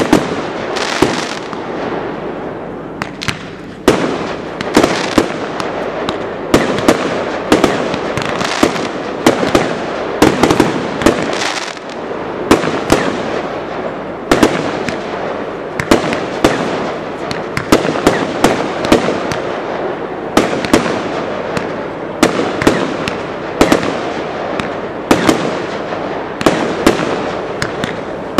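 Professional fireworks display: aerial shells and cakes bursting in an irregular, unbroken volley of sharp bangs, often several a second.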